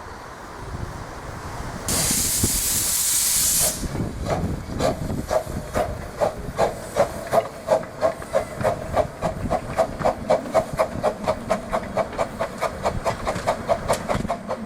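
Miniature steam locomotive starting away: a sudden loud hiss of steam lasting under two seconds, then a regular run of exhaust chuffs that gradually quicken as it gets under way.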